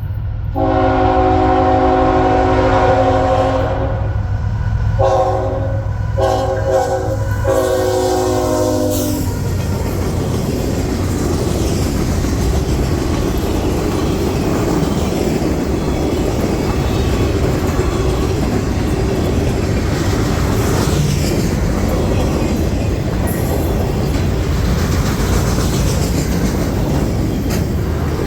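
ET44AC diesel locomotive's air horn sounding four blasts, long, long, short, long, the grade-crossing signal, ending about nine seconds in. After that the train keeps rolling past with a steady rumble and clatter of wheels on rail.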